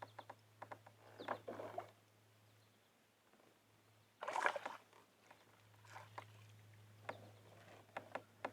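Handling sounds on a fishing kayak while a hooked bass is fought and brought in: scattered light clicks and knocks, with one brief louder rush of noise about four seconds in, over a faint steady low hum.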